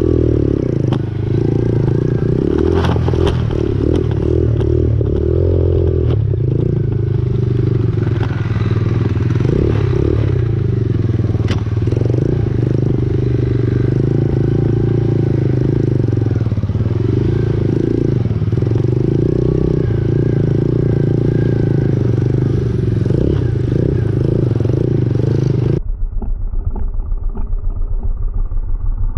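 Pit bike's small single-cylinder engine running close by at fairly steady revs, with clattering. Near the end the sound suddenly turns dull, leaving a low pulsing.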